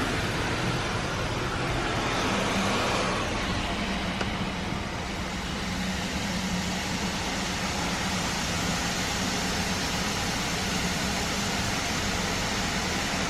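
Belanger Saber tunnel car wash equipment running: a steady rush of water spray and machinery, with a low hum coming in about two seconds in.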